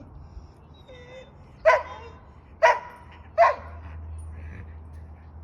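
Yorkshire terrier barking three times, short sharp barks about a second apart.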